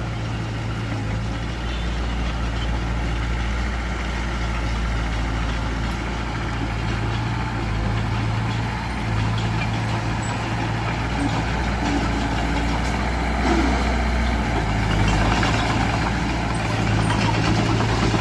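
Diesel engine of a Mitsubishi BD2F bulldozer running steadily, a low engine tone that swells and eases slightly a few times.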